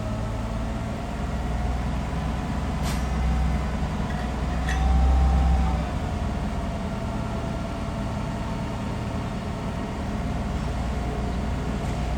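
Heavy diesel earthmoving machinery running steadily with a low rumble and a wavering whine. It swells louder for about a second around the middle, and two sharp clicks come a couple of seconds apart.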